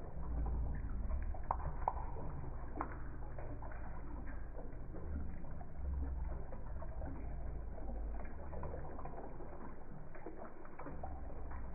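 Running water heard through a slow-motion phone recording: a low, steady rumble with scattered small splashes and clicks.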